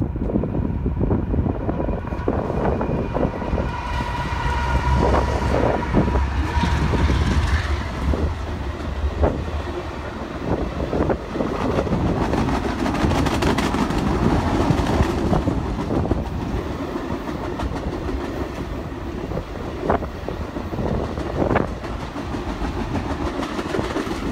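Diesel locomotives pass close by with a deep engine rumble while their horn sounds for a few seconds. Then a long string of steel passenger cars rolls past with steady wheel clatter and a few sharp clanks.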